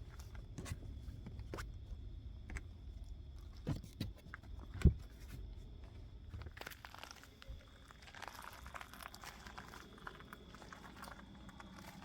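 Things being handled, with crinkling and crunching like packaging being worked open. Scattered knocks, a sharp thump about five seconds in, then a stretch of crinkling.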